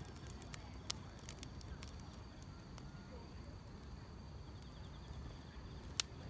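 Wood fire crackling, with scattered sharp pops, one about a second in and the loudest near the end, over a faint steady chirring of grass insects.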